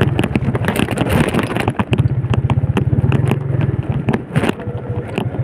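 Yamaha Vega underbone motorcycle's single-cylinder four-stroke engine running under way, its pulsing note strongest in the middle, with wind on the microphone and repeated short knocks and rattles.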